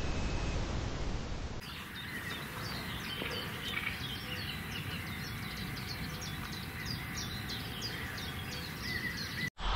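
A muffled, steady rushing hiss, then an abrupt cut about a second and a half in to birds chirping and singing: many quick, short chirps over a light outdoor hiss.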